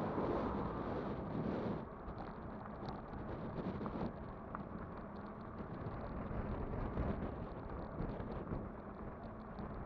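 Wind buffeting the microphone over the rumble of an e-bike rolling along the road. It is loudest for the first couple of seconds, then eases to a steadier level.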